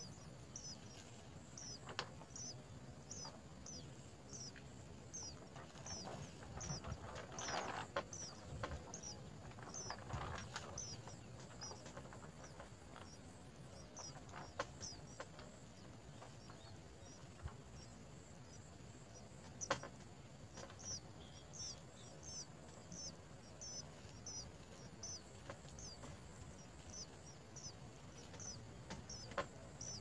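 Faint, short high chirps from a small bird, repeated evenly about twice a second, pausing for a few seconds midway. Soft rustling and a few light clicks, most noticeable a quarter to a third of the way in.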